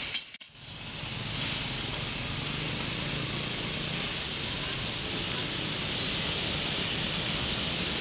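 Steady rumble of a train hauled by a diesel locomotive crossing a rail bridge, mixed with road traffic noise. It begins after a brief gap in the sound.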